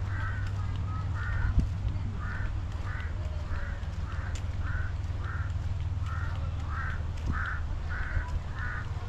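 A bird calling over and over in short, harsh calls, about two a second with a couple of brief pauses, over a steady low rumble.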